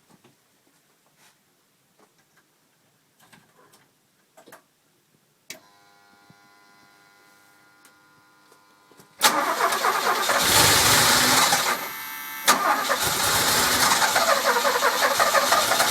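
DeLorean's PRV V6 being cranked from cold with no throttle: after a click and a few seconds of faint steady hum, the starter cranks loudly about nine seconds in, stops briefly around twelve seconds and cranks again. The engine is hard to start cold without gas.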